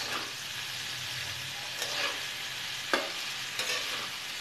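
Chopped spiny gourd frying in a metal kadhai with a steady sizzle, while a metal spatula stirs it and scrapes against the pan several times, with one sharp scrape about three seconds in.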